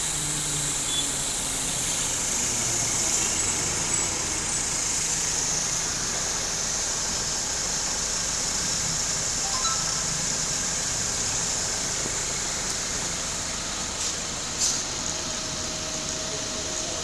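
Car engine idling steadily under a constant high-pitched hiss, with a short click near the end.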